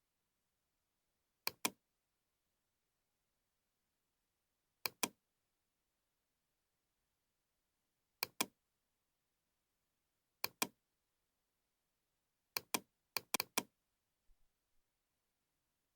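Computer mouse clicking, mostly double-clicks: pairs of sharp clicks at intervals of two to three seconds, with a quicker run of clicks near the end and faint ticks after it.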